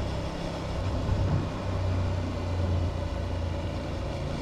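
Aprilia Tuareg 660's parallel-twin engine running steadily while the motorcycle is ridden, with a steady rush of noise over it; the engine note grows a little louder from about one to three seconds in.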